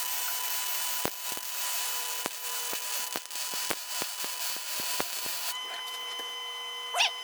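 Lincoln 110 MIG welder arc crackling and sizzling with frequent sharp pops as a bead is laid on a steel mower-deck bracket. The arc stops about five and a half seconds in, leaving a steady hum.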